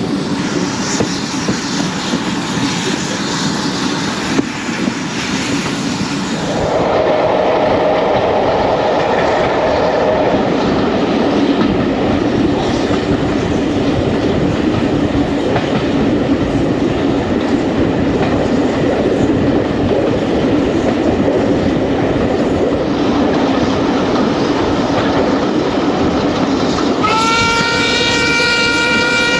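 Heritage passenger train running along the line with rhythmic wheel clatter on the rails, growing louder about seven seconds in. Near the end the locomotive sounds a long, high, chord-like whistle signal that rises slightly in pitch as it starts.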